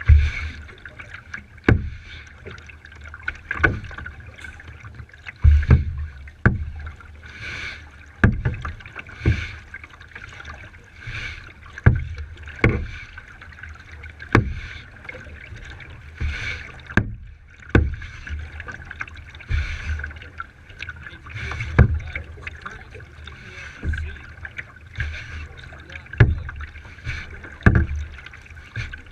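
Kayak paddle strokes pulling through the water, a splash and knock repeating about every one to two seconds.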